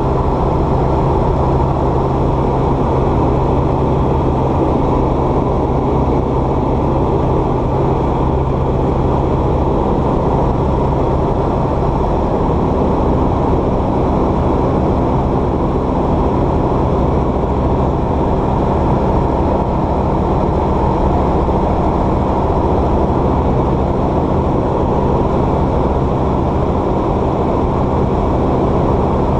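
Light aircraft's piston engine and propeller running steadily, heard from inside the cabin. About twelve seconds in the engine's tone changes, as with a change of power setting.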